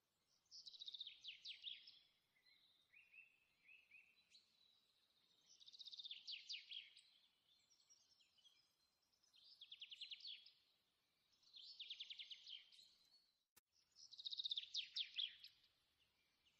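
Faint songbird song: five short phrases a few seconds apart, each a quick run of high notes falling in pitch. A tiny click comes shortly before the last phrase.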